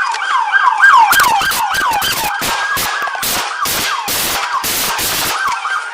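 Police car siren yelping in quick falling sweeps. From about a second in it is cut through by a rapid, irregular string of loud bangs, the sound of gunshots being fired.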